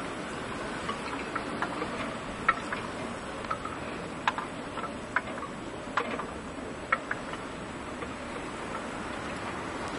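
Blizzard wind blowing steadily, with irregular sharp ticks of something striking a hard surface, about one or two a second, thinning out after about seven seconds.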